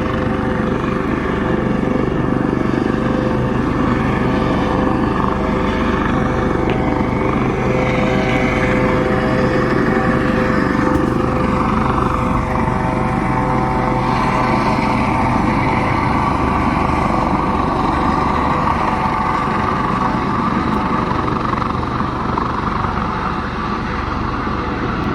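Coast Guard rescue helicopter hovering, its rotor and turbine running with a steady, loud drone.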